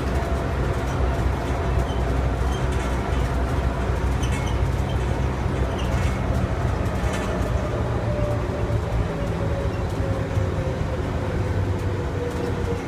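Airport shuttle train running, heard from inside the car: a steady low rumble with a whine that slowly falls in pitch through the second half as the train slows.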